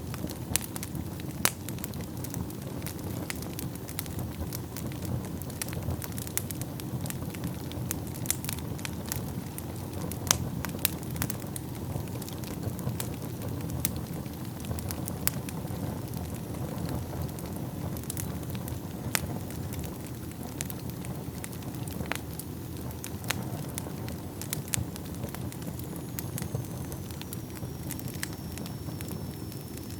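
Wood fire burning in a fireplace: a steady low rush of flames with frequent sharp crackles and pops from the burning wood. A faint high whistle comes in near the end and slides slightly down in pitch.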